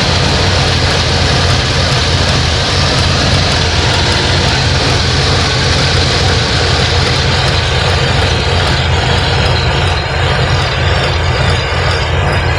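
1988 Plymouth Gran Fury's V8 engine idling, loud and steady with a low hum.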